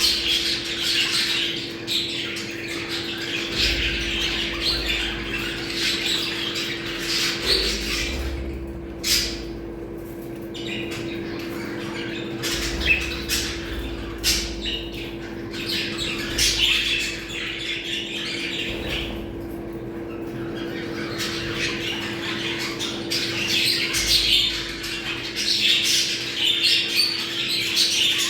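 A flock of budgerigars chattering, warbling and squawking without pause, the breeding-season chatter used to bring budgies into mating condition. It eases briefly a couple of times. A steady low hum runs underneath.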